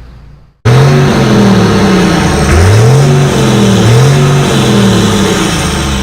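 Loud engine of a pulling tractor revving, its pitch climbing and dropping back about four times. It starts suddenly less than a second in and fades near the end.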